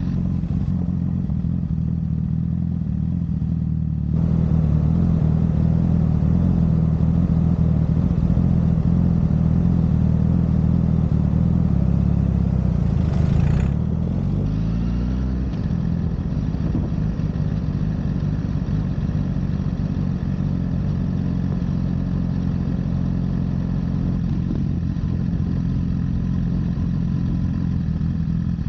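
Honda CBR1000RR's inline-four engine running while the motorcycle is ridden. It gets louder about four seconds in. Around fourteen seconds the engine note shifts as the revs change, then it runs steadily again.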